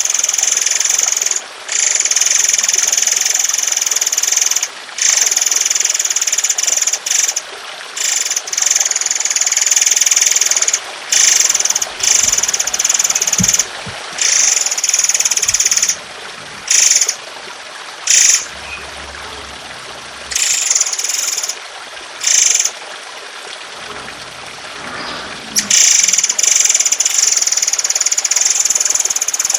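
A songbird giving harsh, rasping rattles in long runs, high-pitched and loud, breaking off and starting again many times, with a steady trickle of water under it.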